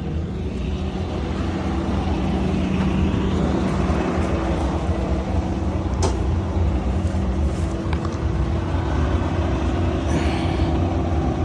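Kobelco SK210LC excavator's diesel engine idling steadily, with one faint click about six seconds in.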